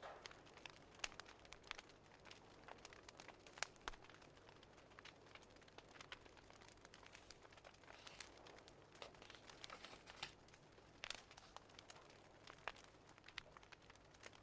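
Faint crackling of a wood fire, irregular small pops and snaps over a soft hiss.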